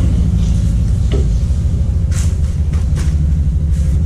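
A steady low machine hum runs throughout, with four short knocks of tools at work on the dismantled rear suspension, about one a second.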